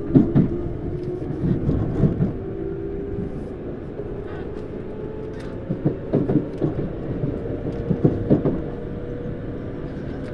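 Tokyu Series 9000 electric train running, heard from inside the motor car: a steady rumble with a faint tone from the Hitachi GTO-VVVF traction equipment, and wheels clacking over rail joints in quick pairs near the start, about two seconds in, and again around six and eight seconds.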